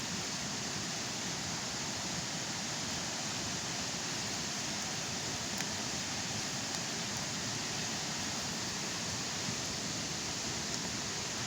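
Steady, even rushing noise of flowing water.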